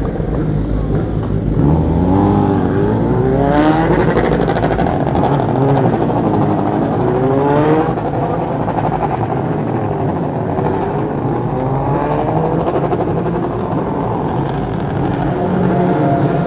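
BMW M 1000 RR superbike's inline-four engine revving in a series of rising runs through the gears as it pulls away, fading after about eight seconds, over a steady engine drone that runs on.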